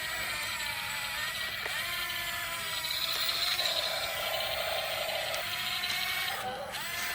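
Small electric motor and plastic gears of a toy RC dump truck whirring, the pitch shifting as it runs, with a higher whine in the middle.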